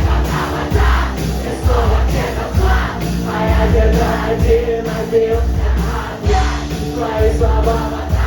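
Rock band playing loud, with a heavy, steady drum beat under sustained guitar chords; no vocals yet.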